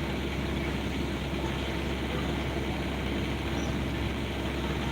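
Excavator engine running steadily, a constant low hum without digging impacts.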